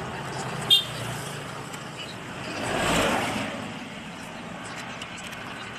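Road traffic going by: a vehicle passes, its noise swelling and fading in the middle, over a steady traffic hum. A single sharp click sounds under a second in.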